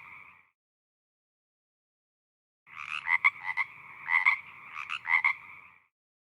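A frog calling: a run of pulsed croaks in three short bouts, starting nearly three seconds in and stopping about three seconds later.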